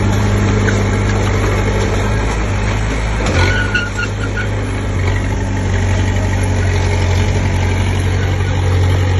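Komatsu D20P bulldozer's diesel engine running steadily, with a brief knock about three seconds in.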